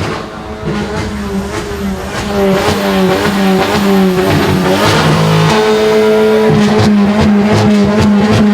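Car engine revving, the exhaust note rising and falling in repeated swoops over a steady drone, louder from about two seconds in, with sharp cracks in the second half.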